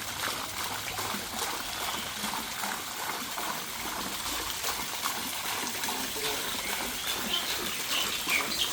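Running water trickling and splashing steadily, with short high bird chirps joining near the end.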